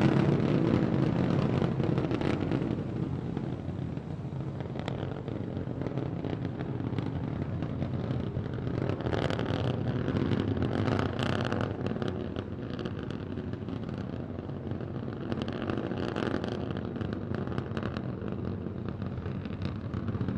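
Starship SN15's three Raptor engines burning during ascent: a continuous rumbling rocket noise with crackle that swells and fades a little, strongest about halfway through.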